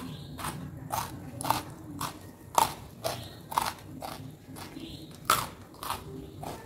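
A person chewing crunchy food, with a crisp crunch about twice a second.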